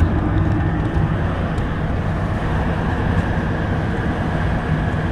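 Semi truck's diesel engine running steadily with road noise.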